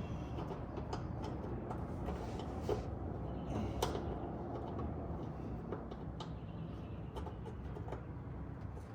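Scattered light clicks and knocks of hand work on car parts, over a steady low hum.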